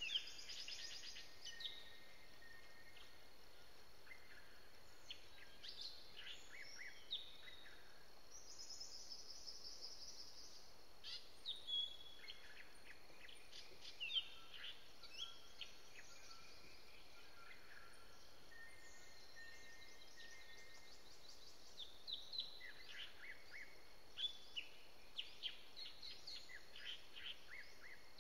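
Wild birds calling: short high chirps and quick sweeping notes come in scattered bursts, with a lull in the middle, over faint steady background hiss.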